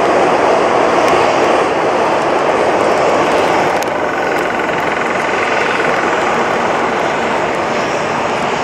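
Jet engines of an Airbus A330-300 airliner during its landing: a loud steady rushing noise that eases slightly about four seconds in, after which a faint high whine can be heard.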